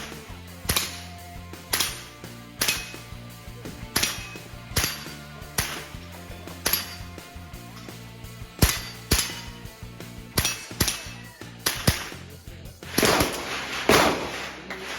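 A string of .22 rimfire rifle shots from an Armscor M22 semi-automatic rifle, fired at about one a second with a short pause in the middle.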